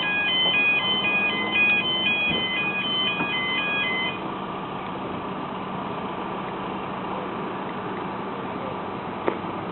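Level crossing warning alarm sounding its warbling multi-tone yodel, which stops about four seconds in. A steady low hum of idling traffic follows, with one short click near the end.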